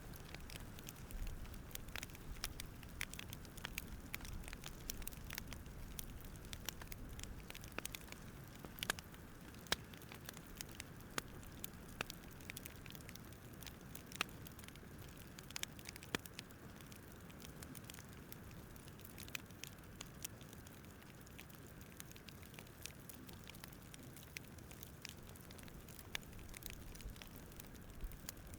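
Campfire crackling: irregular sharp snaps and pops over a low, steady hiss.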